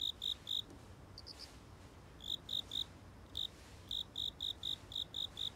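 A cricket chirping in runs of short, high, evenly spaced chirps, about four a second, with brief pauses between the runs.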